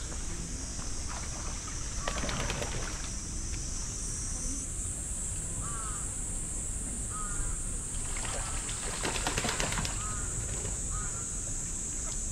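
Bird calls at a pond. A short chirping call repeats about once a second, and two louder stretches of harsh, rasping calls come about two seconds in and again around nine seconds in, over a steady high-pitched buzz.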